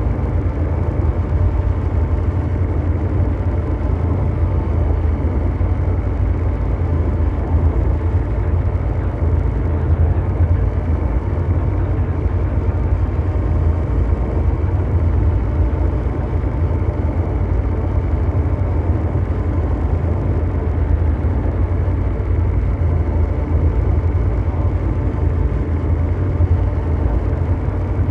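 Ambient mechanical drone noise: a dense, steady rumble heaviest in the deep bass, with faint steady hum tones over a brown-noise-like bed and no change in level.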